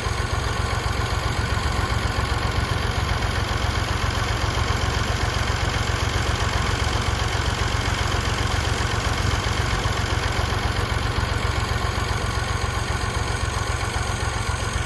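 1970 Massey Ferguson 135 tractor's Perkins three-cylinder diesel engine idling steadily.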